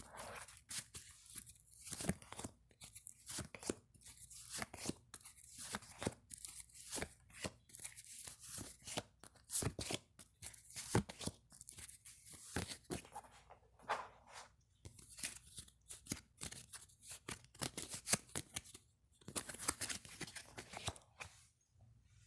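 Tarot cards being shuffled and handled: an irregular run of quick papery rustles, snaps and taps.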